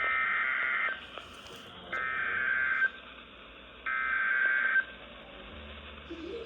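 NOAA Weather Radio SAME alert header: three bursts of warbling digital data tones, each about a second long and about two seconds apart, heard through a radio with a narrow, hissy sound. They mark the start of a new emergency alert, here a severe thunderstorm warning.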